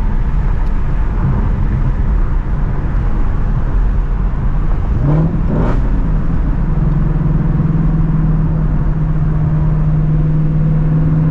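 Shelby GT350's flat-plane-crank 5.2-litre V8 running at light load while cruising, under steady road noise. About five seconds in the engine note steps up, then holds a steady drone.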